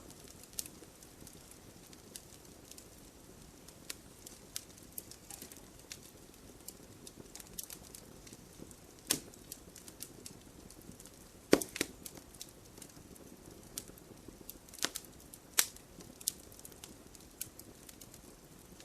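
Wood fire crackling, with irregular sharp pops and snaps over a low hiss. A few much louder pops come in the second half.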